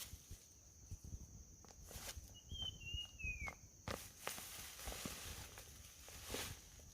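Irregular footsteps and rustling crunches outdoors. About two and a half seconds in, a bird gives a quick run of three short falling whistles, over a steady high insect drone.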